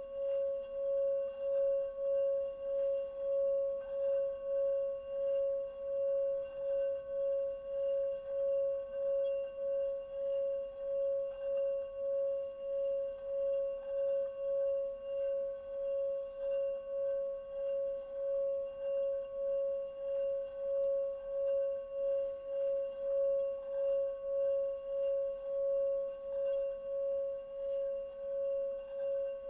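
Singing bowl held in a constant ring, one steady tone with fainter higher overtones. The tone pulses evenly about one and a half times a second.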